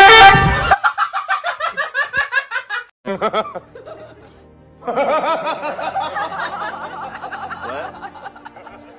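Laughter: after a loud burst at the start comes a rapid run of short, evenly repeated laughs lasting about two seconds, then, after a pause, a longer and denser stretch of laughing.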